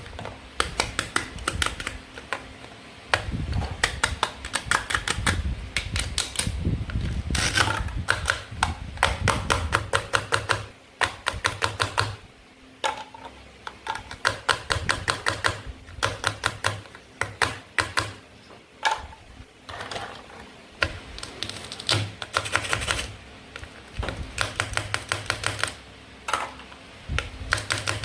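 Toy knife cutting through plastic play fruit and vegetables: rapid sharp clicks and taps in short runs with brief pauses between them.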